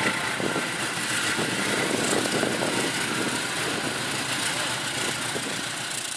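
Diesel-hauled local passenger train moving along the track beside a station platform, a steady noise of engine and rolling coaches that eases a little toward the end.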